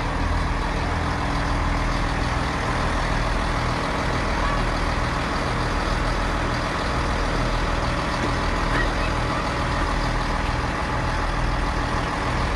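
Class 158 diesel multiple unit standing at the platform with its diesel engines idling: a steady low drone with a slight rhythmic pulse.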